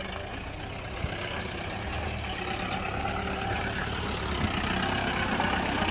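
Heavy vehicle engine running steadily, growing gradually louder.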